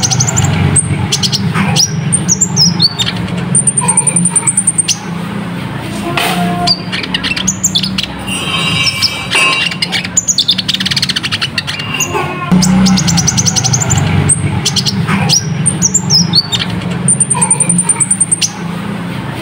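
Olive-backed sunbird (konin) singing continuously: rapid high chirps, fast trills and quick sweeping notes, the sequence recurring as if looped. A steady low hum runs underneath.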